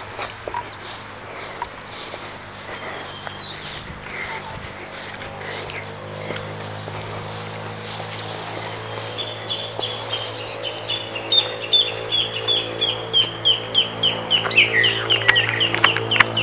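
A bird singing a run of short, down-slurred whistled notes, about three a second, starting about halfway through and quickening and getting louder toward the end, over a steady high insect drone and a low steady hum.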